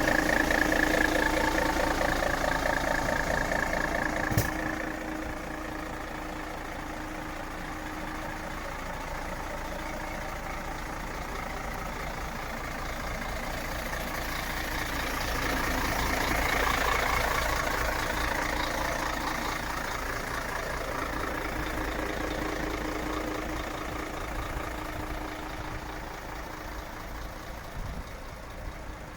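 Mercedes-Benz Actros 2544 truck's diesel engine idling steadily. A sharp click comes about four seconds in, after which it sounds quieter, swelling again midway and easing off near the end.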